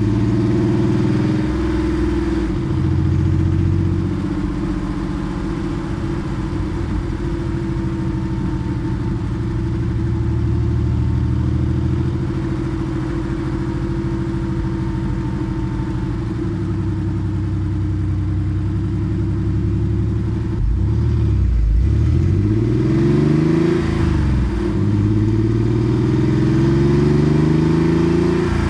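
Porsche 964 Carrera 2's air-cooled flat-six running through a center straight-through muffler, holding a steady engine note while driving. About two-thirds through, the revs drop and then rise and fall in several sweeps.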